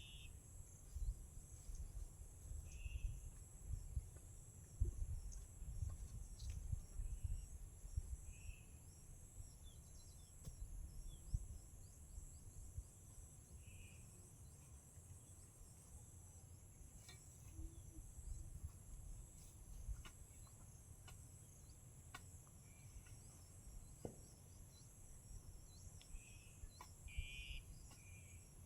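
Steady high-pitched chirring of insects, with a short bird chirp every few seconds over a faint low rumble.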